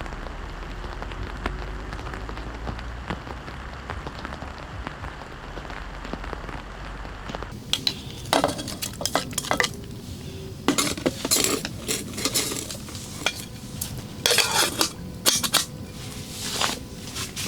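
A steady hiss for about the first seven seconds, then repeated sharp clinks and scrapes of metal kitchenware being handled.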